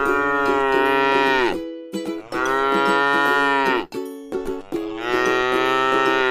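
Cow mooing: three long calls of about a second and a half each, their pitch falling away at the end, over light background music.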